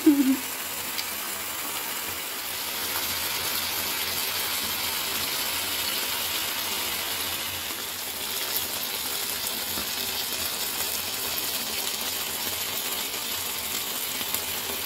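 Chicken breasts sizzling steadily in hot oil in a nonstick frying pan, with a few small crackles and pops.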